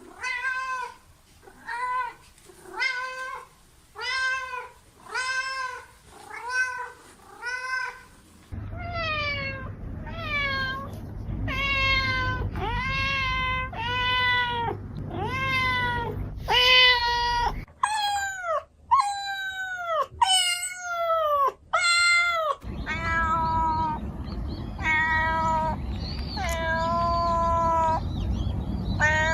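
Cats meowing over and over, short meows about one a second, in a string of separate clips that change abruptly several times. In some stretches the meows fall in pitch, and about two-thirds through a run of meows sweeps down from a high pitch; a low background hum sits under the meows in the middle and closing stretches.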